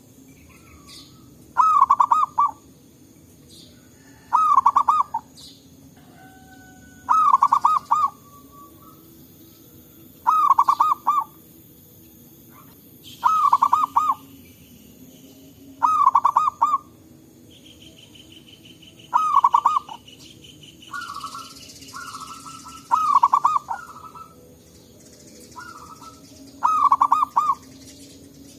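Zebra dove (perkutut) singing its rapid, rolling cooing phrase, repeated about every three seconds, nine times in all. Fainter chirping from another bird or insect comes in briefly past the middle.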